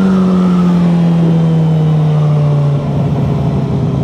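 Sport motorcycle engine running loud with its exhaust removed, holding one steady note that slowly falls in pitch as the bike slows, with a further drop about three seconds in.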